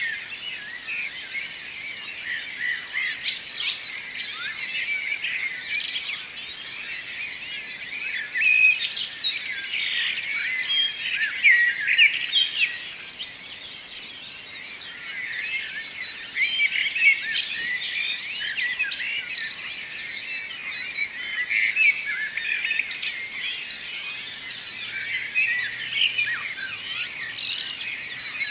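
A dawn chorus: many birds singing and chirping at once, thick overlapping calls with no pause.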